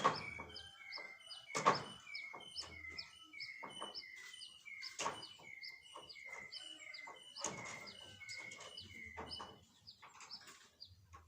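Small birds chirping, a quick run of short falling chirps repeating several times a second. Several sharp knocks cut across it, about five in all, the loudest a couple of seconds in.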